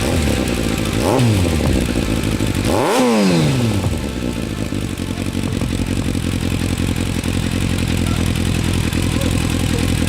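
Yamaha FZS 600 Fazer's inline-four engine through an aftermarket exhaust, blipped twice from idle: a short rev about a second in and a bigger one near three seconds, each falling straight back, then a steady idle.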